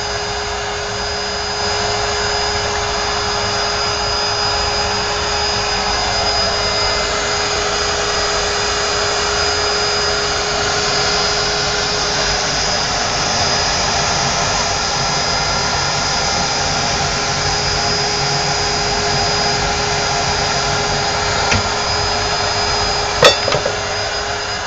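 Electric air blower running steadily to force air into the wood-fired stove, a whirring rush with a constant low hum and a high whine. A sharp click or knock sounds near the end.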